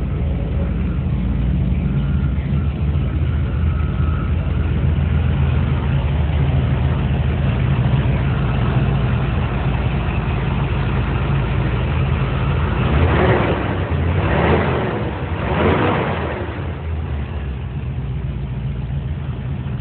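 Chevy 350 small-block V8 in a 1957 Chevrolet Bel Air running at a steady idle, with three short surges about two-thirds of the way in.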